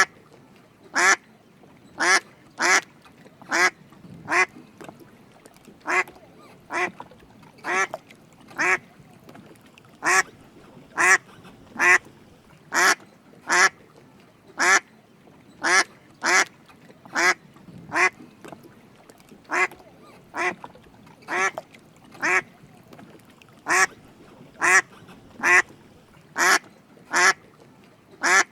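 Drake mallard duck quacking: a long series of short single calls, roughly one a second at uneven spacing.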